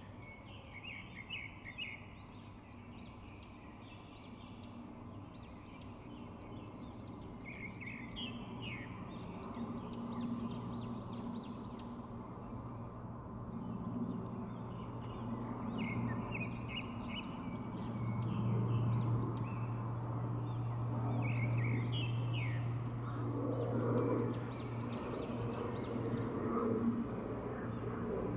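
Small birds chirping in quick repeated bursts, over a steady low hum that grows louder in the second half.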